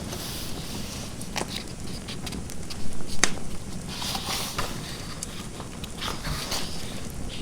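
Fireplace crackling with irregular sharp pops, a few louder ones in the middle, and short stretches of writing scratching on paper.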